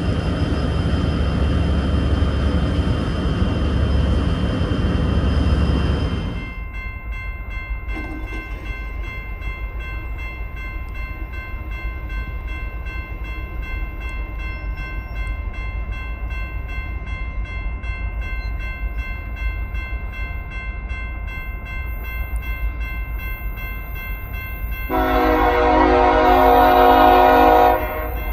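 Diesel freight locomotives running. A loud rumble fills the first six seconds and cuts off abruptly, leaving a steadier hum with a constant whine. About 25 seconds in, a locomotive air horn sounds one chord of several notes for close to three seconds.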